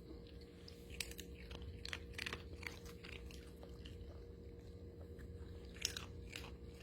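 A Pomeranian crunching and chewing baked plantain chips: faint, irregular crisp crunches.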